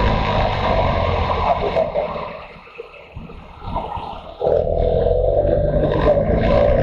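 Motorcycle engine running under way with wind rushing past. About two seconds in the engine sound and wind fall away, as if the throttle is closed. It comes back abruptly about four and a half seconds in as the rider accelerates again.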